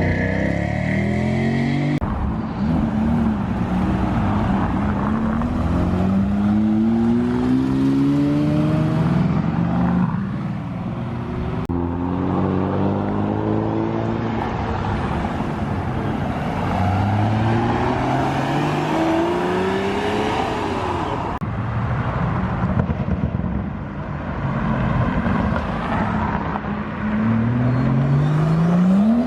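Performance car engines accelerating away one after another, each revving up in a rising sweep of pitch, dropping as it shifts, then climbing again. The sound changes abruptly a few times, as one car gives way to the next.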